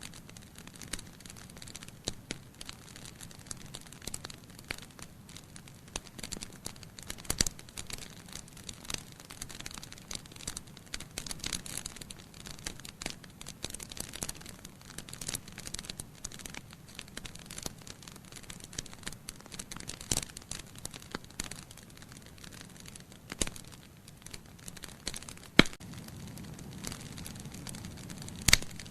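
Logs burning in a fireplace, crackling with dense small snaps and a few louder pops over a low, steady rumble of flame. The sharpest pop comes a few seconds before the end.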